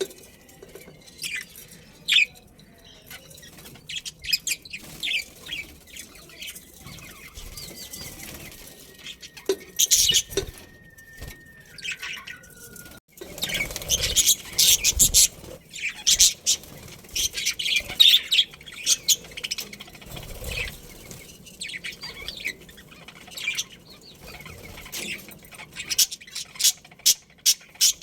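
Budgerigars chirping and chattering, in scattered short, high calls with busier flurries about halfway through and a quick run of chirps near the end.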